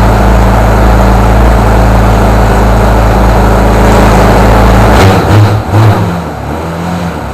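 Home-built miniature model engine running loud and steady, then shut off about five seconds in, running unevenly and dying away.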